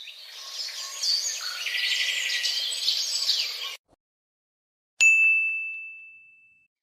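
Birds chirping and twittering for nearly four seconds, then, after a second of silence, a single high bell ding that rings out and fades over a couple of seconds.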